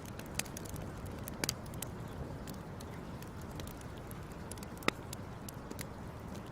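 Wood fire crackling: irregular sharp pops and snaps over a steady low rumble, with the loudest pop about five seconds in.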